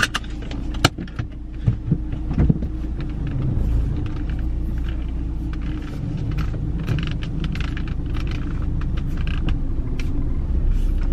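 Steady low rumble of a car idling, heard from inside the cabin, with a few sharp clicks and knocks in the first couple of seconds as things are handled.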